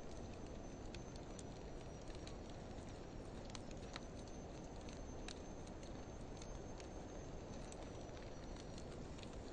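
Wood fire of driftwood and dry hardwood logs in a fire pit, crackling with scattered sharp pops over a steady low rush of burning, slowed to half speed.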